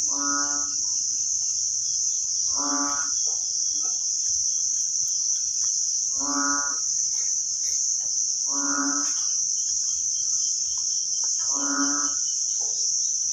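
Steady high-pitched insect drone, with a short, low, moo-like animal call repeating five times, every two to three seconds.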